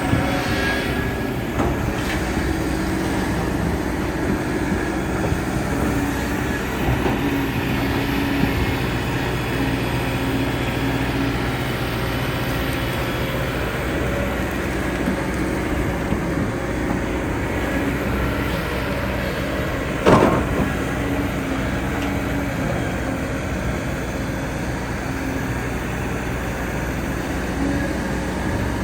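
Excavator diesel engine running steadily under working load, with a single sharp knock about two-thirds of the way through.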